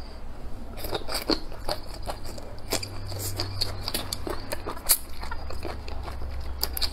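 Close-miked chewing of a mouthful of rice and fried green chili peppers: irregular wet mouth clicks and smacks, one louder smack about five seconds in.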